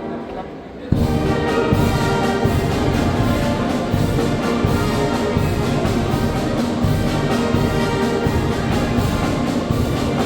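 Sierra Mixe philharmonic wind band playing: a soft held chord fades, then about a second in the full band comes in loudly, brass chords over a steady drum beat.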